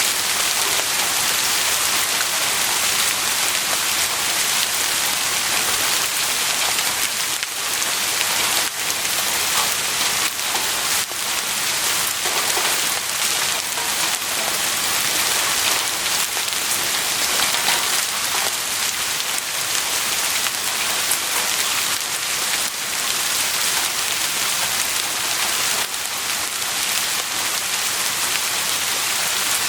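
Heavy rain falling steadily, an even dense hiss with the patter of individual drops hitting surfaces.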